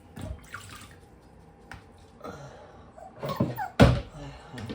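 Water splashing and dripping in a small bathroom while a puppy is bathed, in irregular splashes with a sharp, louder splash or knock about four seconds in.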